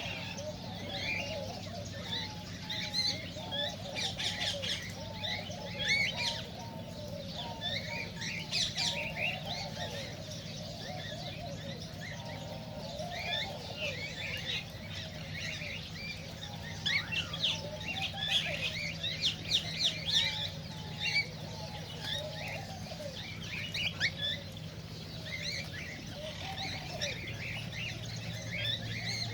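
A flock of cockatiels chirping and whistling, many short calls overlapping without a break, over a steady low hum.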